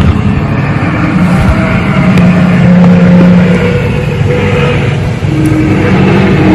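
Loud, sustained low droning with several steady pitches that shift now and then, the kind of recording passed around as a 'strange sky sound'.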